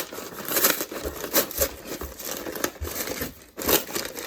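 A crushed cardboard shipping box and its packaging being pulled open by hand: irregular crinkling and rustling, with a few dull knocks.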